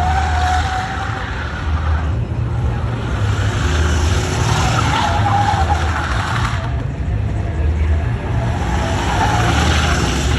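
A car's tyres squealing and screeching under wheelspin over a loud, hard-running engine. The squeal rises and falls in waves, strongest near the start, about halfway through and near the end.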